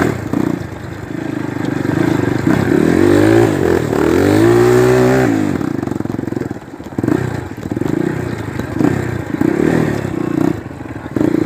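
Single-cylinder four-stroke trail motorcycle engine under way, revving up and back down between about two and five seconds in, then rising and falling in short bursts of throttle.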